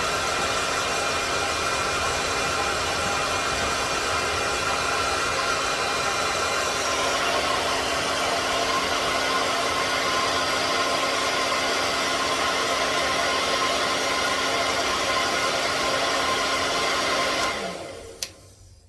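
Handheld hair dryer blowing steadily on its fan. It is switched off about a second before the end, its pitch falling as the motor spins down.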